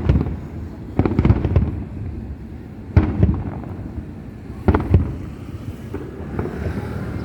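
Aerial fireworks bursting: a string of loud booms about every one to two seconds, some in quick pairs, with a lower rumble between them.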